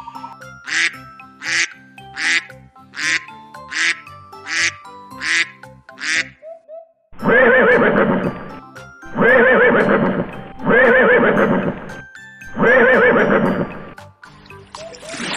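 Animal calls over background music: eight short, sharp calls about three-quarters of a second apart, then after a brief gap four longer, louder calls, each about a second and a half.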